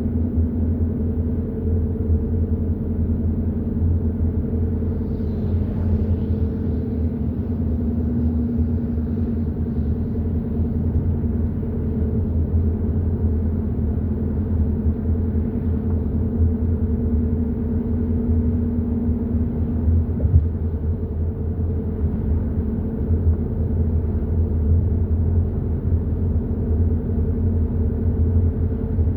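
Hyundai i30 N Line driving at a steady pace: a continuous low engine and road drone with a steady hum. A single short knock comes about two-thirds of the way through.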